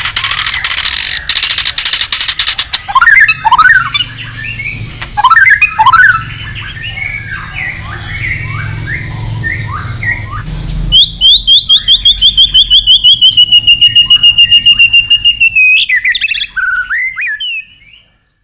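White-rumped shama singing: a harsh rasping stretch, then loud sweeping whistled phrases, then a fast run of repeated notes, about four a second, falling slightly in pitch, before the song fades out near the end.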